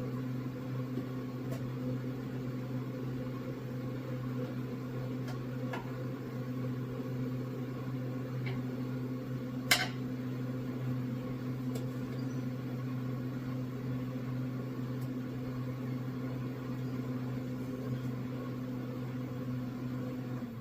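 Small electric motor running with a steady hum, with a few faint clicks and one sharper metallic click about ten seconds in.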